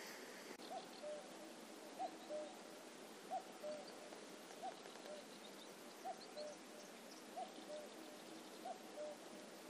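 A bird repeats a two-note hooting call, a higher note then a slightly lower one, about every 1.3 seconds. The call is faint over a low background hiss.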